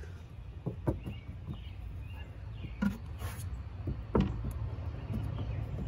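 A few short knocks and taps, the loudest about four seconds in, over a steady low rumble.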